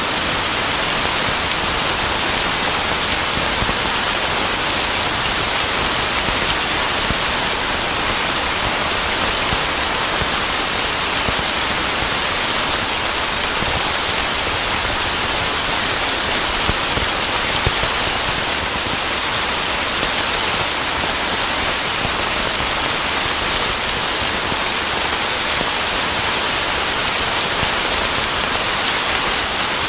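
Steady heavy rain falling on a surface, an even hiss of many drops.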